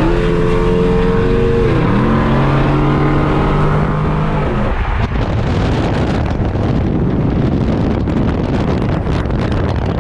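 Car engine running steadily, its pitch stepping down and up a few times in the first half, then giving way to a loud, even rush of wind and road noise.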